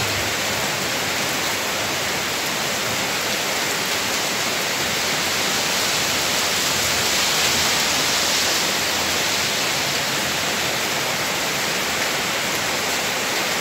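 Steady rain falling on a waterlogged yard and road, an even hiss.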